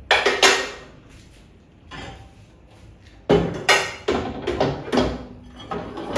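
Knocks, clatter and scraping from a microwave oven being handled and wiped during cleaning, in a short burst at the start and a longer run of strokes from about three seconds in.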